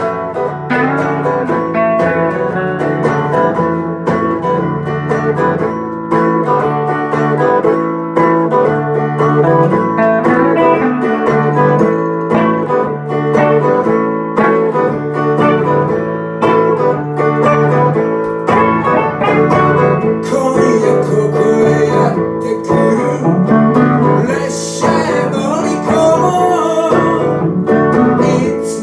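Acoustic guitar music played in a steady, even rhythm.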